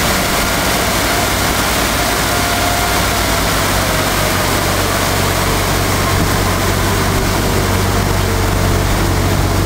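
Vehicle engine idling steadily, a low hum under an even hiss.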